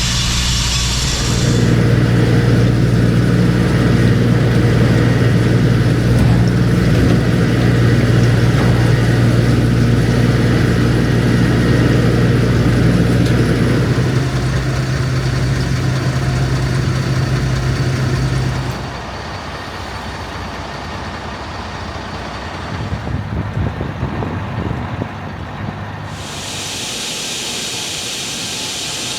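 Large diesel engine of farm machinery running at a steady speed, a loud steady drone; about two thirds of the way through it drops to a quieter, rougher running sound, and a hiss comes in near the end.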